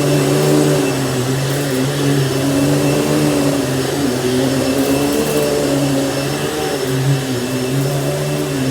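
Panasonic upright vacuum cleaner running steadily, its motor hum wavering slightly in pitch.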